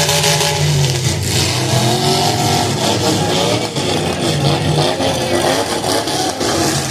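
Demolition derby cars' engines revving up and down, several at once, over a constant wash of noise.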